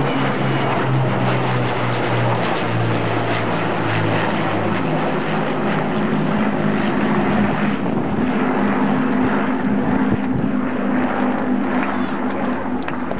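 Formation flypast of Rolls-Royce Merlin piston-engined warbirds and the Avro Vulcan's Bristol Olympus jet engines: a loud, steady roar with a low engine drone that drops in pitch over the first few seconds as they pass.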